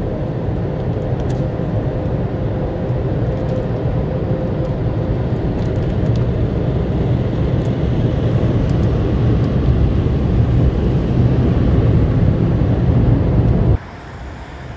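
Drive-through automatic car wash working over the car, heard from inside: a loud, steady, low rushing noise that grows slightly louder and cuts off abruptly about a second before the end.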